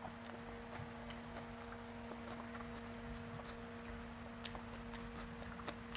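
Close-miked chewing of a mouthful of rice: many small wet mouth clicks and smacks. Fingers mixing rice on a plastic plate add soft sounds, over a steady hum.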